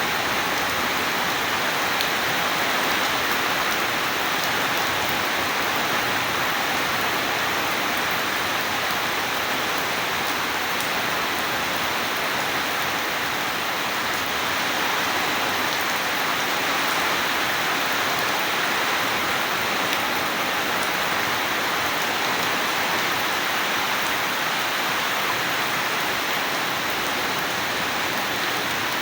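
Steady heavy rain falling: an even, unbroken hiss with no thunder.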